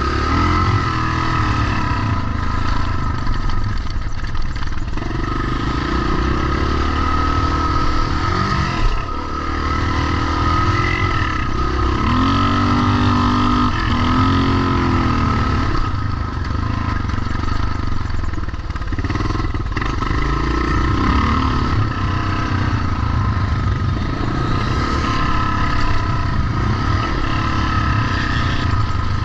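Vintage pre-1990 motocross motorcycle engines running on the track, revving up and falling back again and again, with the pitch rising and dropping throughout.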